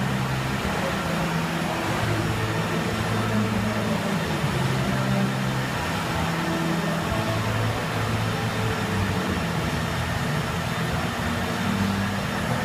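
CNC pipe bender running: a steady machine hum whose pitch steps up and down every second or so as its drives work, over a constant noisy shop background.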